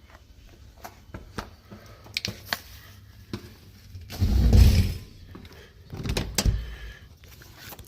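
Scattered clicks and knocks, with two louder, deeper thuds about four and six seconds in.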